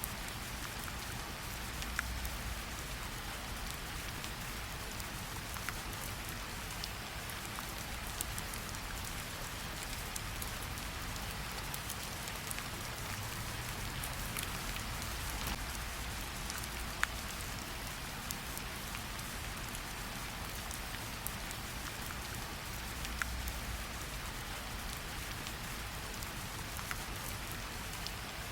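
Steady light rain pattering on tree leaves, with scattered louder single drops dripping off the leaves.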